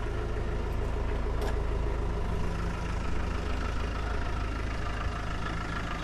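Land Rover Defender 90 engine idling steadily.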